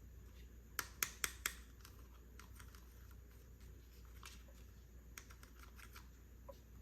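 Small plastic miniature toy pieces being handled, clicking and tapping: four sharp clicks in quick succession about a second in, then scattered softer taps.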